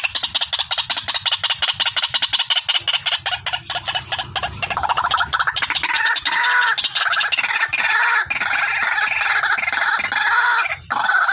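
White-breasted waterhen (ruak-ruak) calling loudly in a rapid run of repeated notes, several a second. About halfway through, the notes give way to denser, overlapping calls, with a brief pause near the end.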